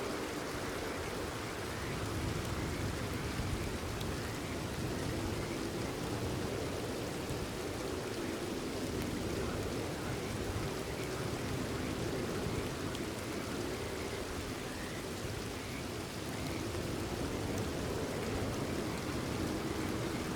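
Steady rain falling, with faint, brief frog calls now and then.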